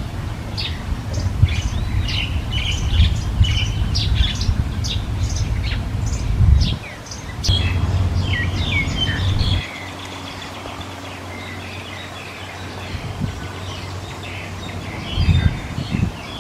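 Birds chirping: many short, high chirps in quick succession, thinning out after about ten seconds. A loud low rumble runs underneath for the first ten seconds, breaking off briefly near the middle.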